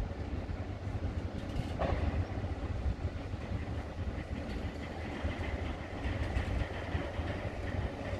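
Freight train of tank wagons rolling past on the rails, a steady rumble of wheels and wagons. There is a short clack about two seconds in and a faint high whine throughout.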